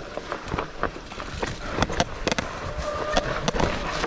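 Mountain bike rattling over a rough, wet trail on a descent: a rapid, irregular string of knocks and clatters from the bike over tyre noise, with a brief steady tone about three seconds in.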